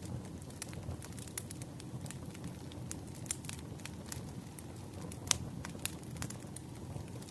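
Wood campfire burning, with irregular sharp crackles and pops over a low steady rumble; the loudest pop comes about five seconds in.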